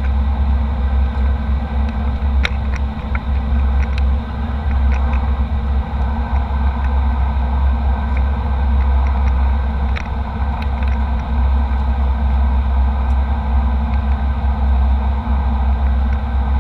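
Steady deep rumble and rushing hiss of a jet airliner's cabin in flight: engine and airflow noise, with a few light clicks and rattles from the cabin a couple of seconds in and again about ten seconds in.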